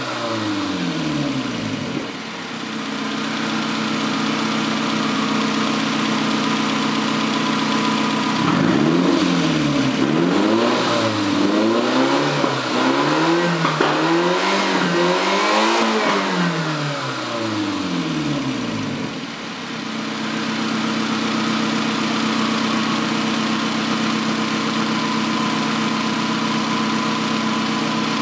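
Nissan SR20DET 2.0-litre turbocharged four-cylinder engine running: revs fall back to a steady idle, then about halfway through it is blipped up and down about five times in quick succession before settling back to a steady idle.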